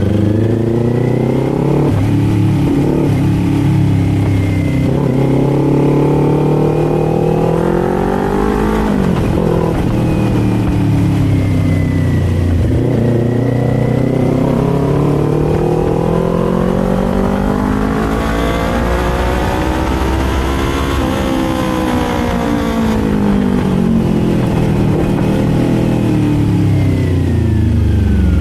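Kawasaki Z400 parallel-twin engine and exhaust heard from the rider's seat, revs climbing and falling as the bike accelerates, shifts and slows. There is a long rise in revs to about three-quarters of the way through, then a steady drop.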